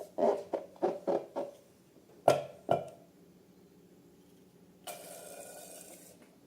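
Slime and balloons being handled: a quick run of short plops and taps, two sharper louder snaps a little after two seconds in, then a hiss lasting just over a second near the end.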